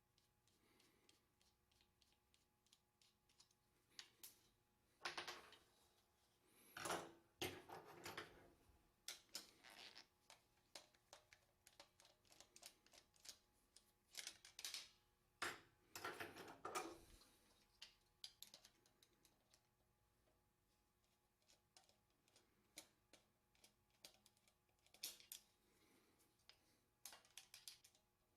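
Faint, scattered small clicks and taps of hand tools and metal parts, with a few short scraping rasps about 5 to 9 seconds in and again around 15 seconds, as a screwdriver and nut driver take the screws and lock nut off the cutter wheels of a Columbia automatic drywall taper.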